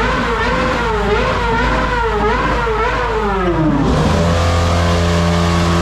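A car engine revved over and over, its pitch rising and falling with each rev. Near the end it drops away, then holds a steady pitch.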